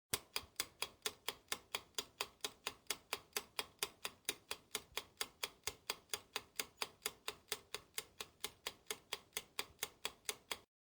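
Clock-ticking sound effect: sharp, even ticks at about four a second, starting and stopping abruptly.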